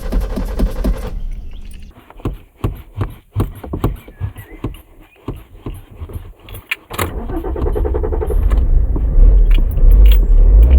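A hard-starting car's starter cranking the engine in a steady rhythm, stopping about a second in; then several seconds of irregular clicking and rattling. About seven seconds in it cranks again briefly, the engine catches, and it runs loud with uneven revving.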